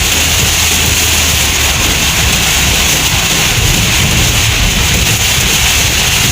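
Heavy downpour drumming steadily on a moving car, heard from inside the cabin as a dense, loud hiss over the low rumble of the car on the road.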